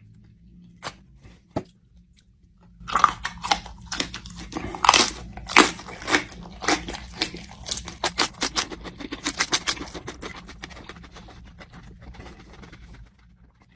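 A person chewing crunchy food close to the microphone, with loud, irregular crunches starting about three seconds in and quickening for a stretch before fading out near the end.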